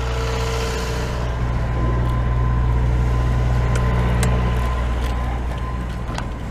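Perkins 4-108 four-cylinder marine diesel engine running steadily, a little louder from about a second and a half in until near the end.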